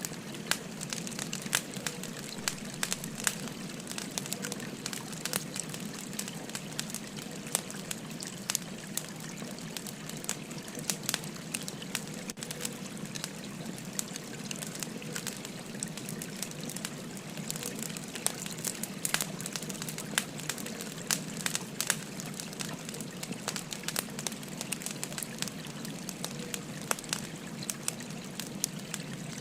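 Wood fire crackling with frequent irregular sharp pops, over the steady rush and gurgle of a flowing stream.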